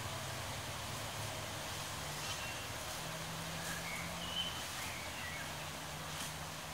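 Rural outdoor background with a few short bird chirps in the middle, a faint steady low hum, and a few faint rustles.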